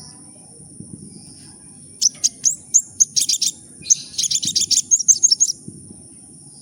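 Sunbird (kolibri ninja) singing in two bursts of rapid high-pitched chirps and trills, about two and four seconds in, over a steady high-pitched tone.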